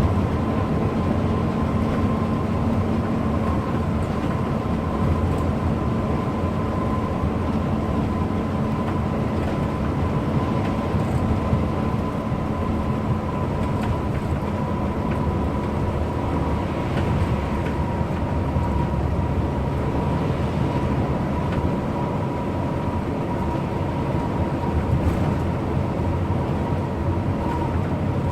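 Bus on the move: steady engine drone and road noise with a thin, constant high whine over it.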